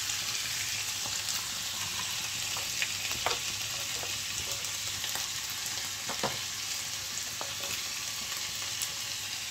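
Minced beef and chopped onion frying in a pan, a steady sizzle with a few light ticks.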